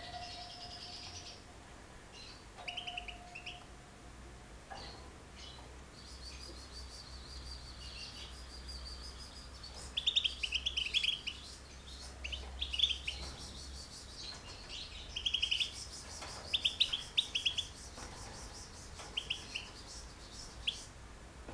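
Small cage birds chirping and twittering together. From about ten seconds in, loud quick runs of chirps come every second or so.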